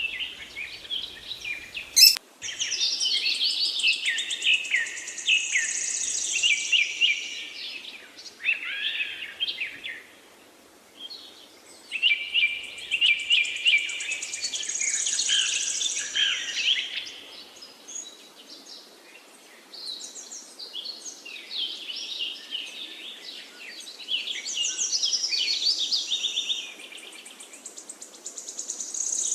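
Small birds chirping and warbling in long bouts of rapid, high notes, pausing briefly between bouts. A sharp click sounds about two seconds in.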